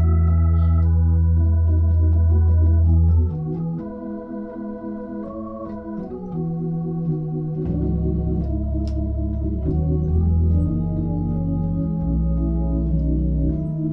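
Hammond A100 organ played through a Leslie 45 speaker: sustained chords over a held bass note. The bass drops out about three seconds in while the chord tones keep moving, and comes back about four seconds later.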